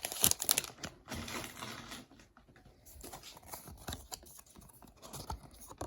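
A foil Pokémon booster pack being opened and its trading cards handled: irregular light clicks and rustles of foil and card stock, busiest in the first couple of seconds and lighter after.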